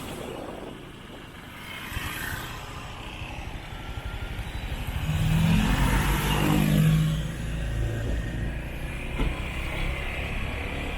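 Motorcycle being ridden, with steady engine and road noise. A louder engine swells about five seconds in and fades back by about eight seconds.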